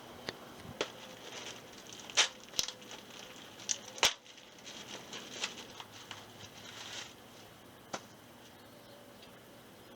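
Close rustling and crackling with a string of sharp clicks, loudest about two and four seconds in, dying away about eight seconds in.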